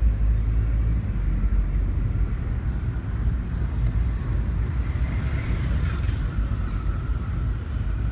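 A car being driven along: a steady low rumble of engine and road noise.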